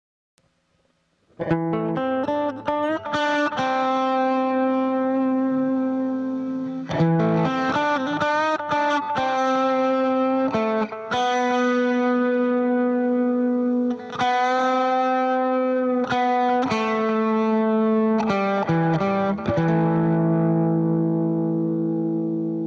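Distorted electric guitar with effects playing a melodic line, starting after a second and a half of silence, with bent and sliding notes, and ending on a long held note that slowly fades.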